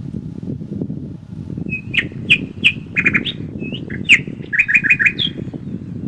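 A bird sings a short run of sharp chirps and whistles starting about two seconds in, ending in a quick rapid series, over a steady low rush of wind through the woods.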